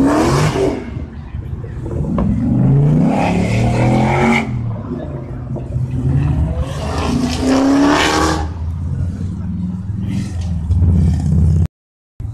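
A car engine idling and revved three times: near the start, about three seconds in and about seven seconds in, each rev rising in pitch and falling back. The sound cuts out briefly just before the end.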